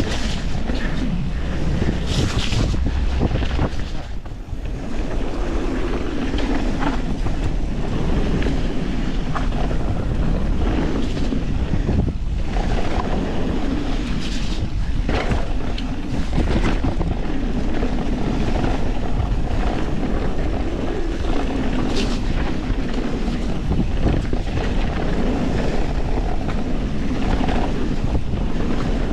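Wind rushing over an action camera's microphone as a YT Industries Capra mountain bike rolls down a rocky, greasy trail, with tyre noise on dirt and rock. Scattered sharp knocks and rattles from the bike come through the steady noise, with a brief lull about four seconds in.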